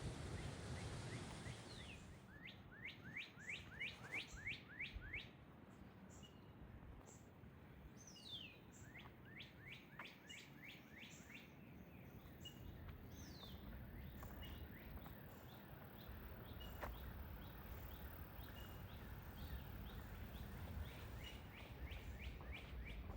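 A songbird singing runs of quick down-slurred whistled notes, about three a second, in three bursts, with short high chip-like notes scattered between.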